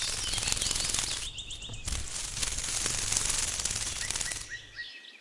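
Dragonfly wings making a fast, dry rattle of rapid clicks, with a brief break about a second and a half in. It fades out about four and a half seconds in, leaving faint bird chirps.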